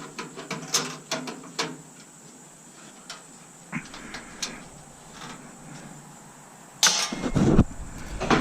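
Tools and parts handled on a stainless steel coffee maker during disassembly: scattered light clicks and taps, then a louder clatter about seven seconds in.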